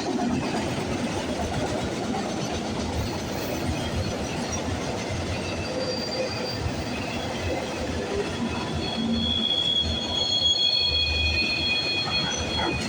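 Freight train cars rolling past at speed, with a steady rumble and rattle of wheels on the rails. Thin high wheel squeal grows stronger in the last few seconds.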